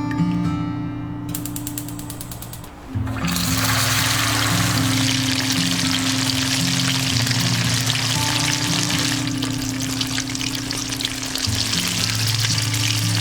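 Food sizzling in a hot pan, a steady crackling sizzle that starts about three seconds in, over background music.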